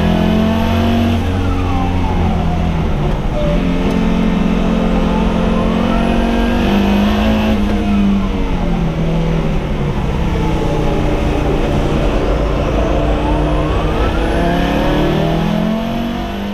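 A race-prepared car's engine heard from inside the cabin on a track lap, its pitch rising and falling again and again as the driver accelerates, shifts and lifts for corners, over steady road and tyre noise.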